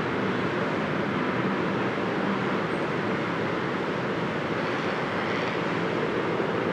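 Jet airliner on approach, its engines giving a steady, even rumble and hiss.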